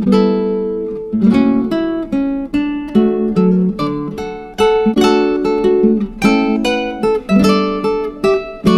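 Background music: acoustic guitar chords strummed and plucked in a steady rhythm.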